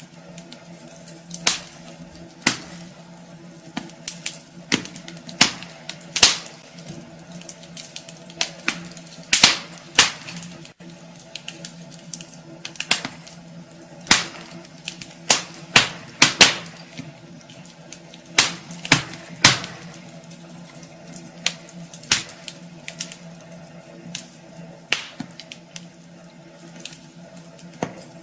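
Wood fire burning in a fireplace: irregular sharp crackles and pops over a soft hiss and a low steady hum.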